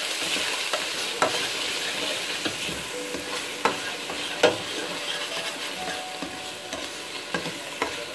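An onion tadka with freshly added ground spices sizzling in oil in a stainless steel pot as it is stirred, the spoon scraping and clicking against the pot now and then, with the sharpest knock about four and a half seconds in.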